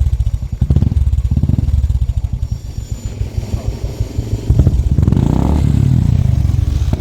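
Motorcycle engine idling with a quick, even exhaust beat, blipped to a higher, louder rev about four and a half seconds in, then settling back.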